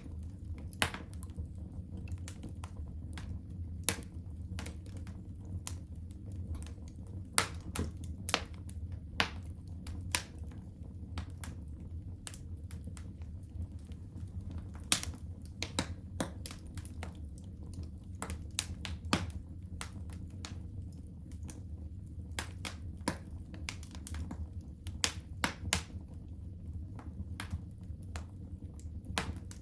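Wood fire burning in a fireplace, crackling and popping: irregular sharp snaps over a steady low rumble of the flames, a few pops much louder than the rest.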